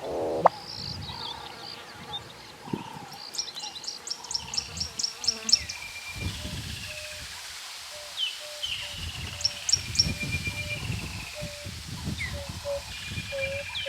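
Several wild birds calling over each other: a quick run of about ten high chirps a few seconds in, scattered whistled notes, and a steadily repeated mid-pitched note through the second half, over patches of low rumbling noise.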